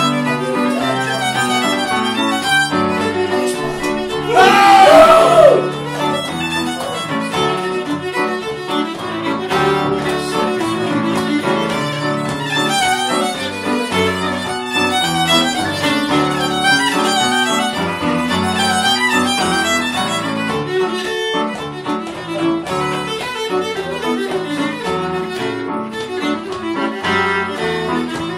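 Irish traditional session music: fiddle-led dance tune played by several musicians over a steady low accompaniment. About four seconds in, a loud voice breaks in briefly over the music.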